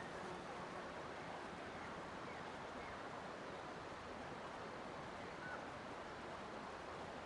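Steady rushing of running water in a natural outdoor ambience, with a faint short bird chirp about five and a half seconds in.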